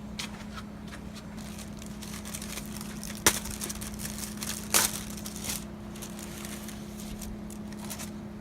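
Handling noises: scattered light clicks and rustling, with two sharp knocks about three and nearly five seconds in, over a steady low hum.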